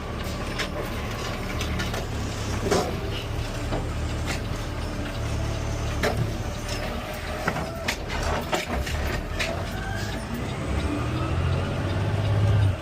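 CNG Peterbilt 520 automated side-loader garbage truck running with a steady low drone, with scattered knocks and rattles throughout. A rising whine starts about ten seconds in, and the sound swells to its loudest just before the end.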